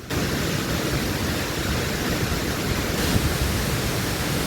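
Steady rushing of a large waterfall, Ithaca Falls, Fall Creek dropping about 150 feet. The sound starts suddenly.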